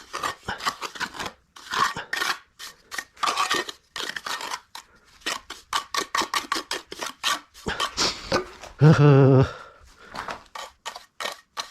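Steel trowel scraping and smoothing cement mortar in quick, irregular strokes. A short voice-like sound from the worker comes about nine seconds in.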